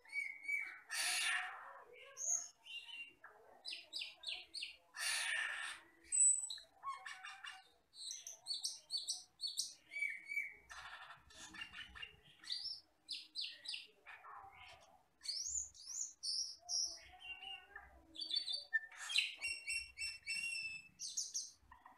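Asian glossy starling (cucak keling) singing a varied run of short whistles, chirps and quick glides, broken by loud harsh rasping notes about a second in and again around five seconds.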